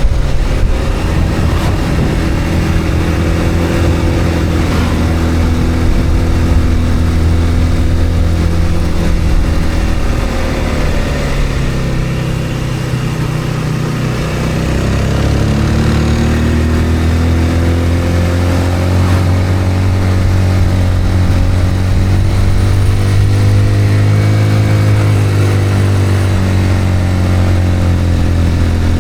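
A motor vehicle's engine running on the move over road noise. Its pitch drops as it eases off about ten seconds in, then rises again a few seconds later as it picks up speed.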